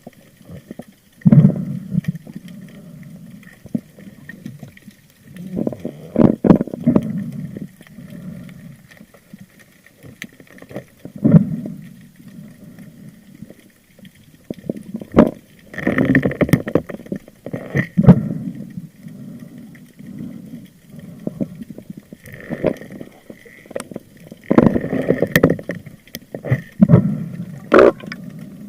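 Water sloshing and bubbling against an underwater camera in irregular surges every few seconds, with sharp clicks in between.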